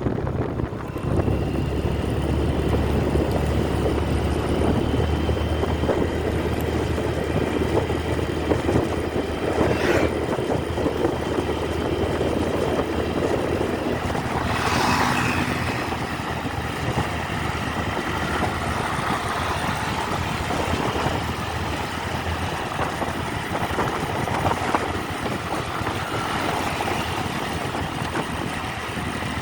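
Motorcycle riding along a road: steady engine drone and road and wind noise, with a brief sharp click about ten seconds in and a short swell of brighter noise around fifteen seconds in.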